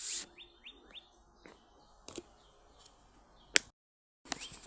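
A songbird singing a fast run of short rising chirps, which stops about a second in. Near the end a sharp click, after which the sound cuts out completely for a moment.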